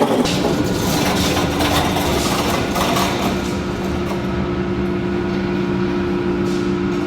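Production machinery in a filter factory running steadily: a continuous mechanical hum with a couple of steady tones under a noisy layer, with irregular clatter in the first few seconds.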